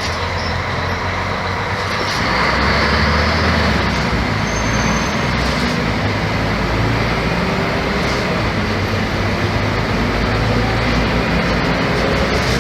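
Mercedes-Benz O-500MA articulated bus's diesel engine and Voith automatic gearbox running under way, with steady road noise. The engine pulls a little louder about two seconds in, and a faint rising whine comes in later on.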